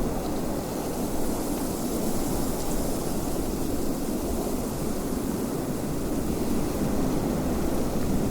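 Wind blowing steadily, a constant rushing noise, heaviest in the low range, with a fainter hiss above.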